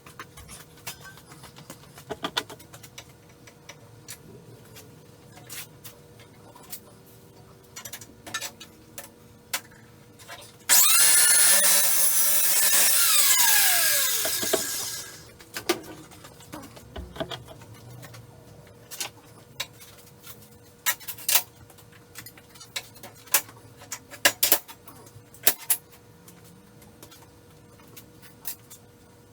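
A power cut-off saw runs for about four seconds near the middle, cutting steel stock, then spins down with a falling whine. Scattered short knocks and clanks come before and after it.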